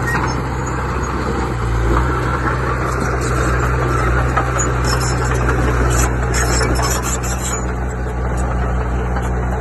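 Diesel engine of heavy earthmoving machinery running steadily under load, with a scraping, clattering noise over it.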